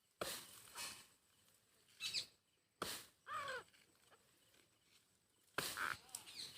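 Four heavy chopping blows struck with a hand tool into wood or brush, spaced unevenly. About halfway through a short, falling animal-like call is also heard.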